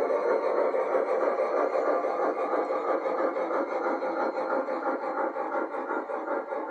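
Sound system of an MTH O-scale Challenger model steam locomotive playing steam-exhaust chuffing through its onboard speaker, a fast even beat. It fades slightly as the train runs off down the track.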